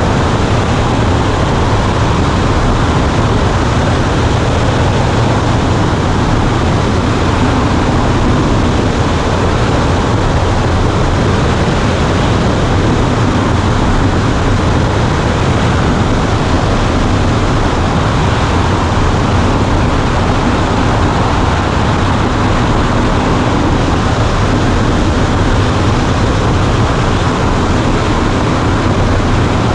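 Cessna 140A's engine and propeller running steadily, heard from inside the small cabin as a loud, constant drone with airflow noise.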